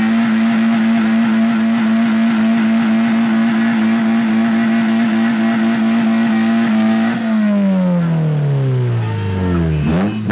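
Honda Civic's four-cylinder engine held at high revs during a tyre-smoking burnout, its note steady for about seven seconds before the revs fall away over about three seconds. Near the end there is a quick rev blip as the car passes close by.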